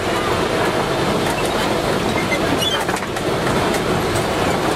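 Open-sided safari truck driving along a rough track, a steady rumble of engine and road noise with the body rattling.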